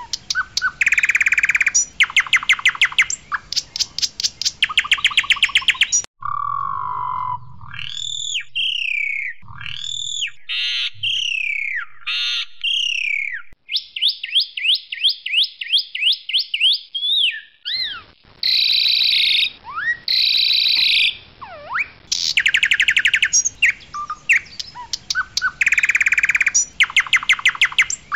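Asian pied starling (jalak suren) singing loudly: bursts of fast, buzzy rattling trills, broken up in the middle by clear slurred whistles that sweep up and down and a run of rapid repeated notes.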